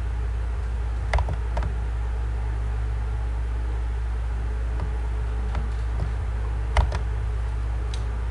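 Steady low hum with about six short, scattered clicks; the strongest come about a second in and shortly before the seven-second mark.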